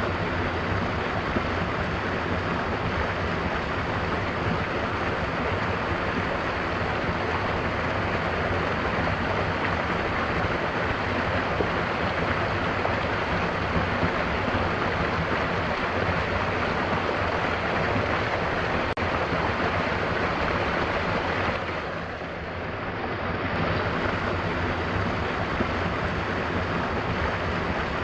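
Waterfall, water falling and splashing in a steady, dense rush, briefly softer a little past the three-quarter mark.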